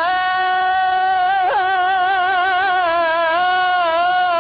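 A reciter's voice in melodic Quran recitation, holding one long drawn-out note on a single syllable, with wavering ornamental turns and a quick upward flick about a second and a half in.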